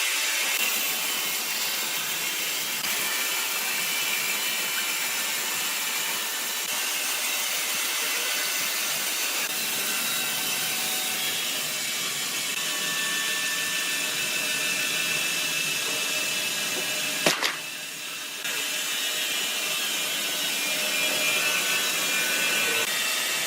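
Sawmill machinery running steadily, a dense hiss with faint whining tones. A sharp crack comes about 17 seconds in, followed by a brief dip before the running noise resumes.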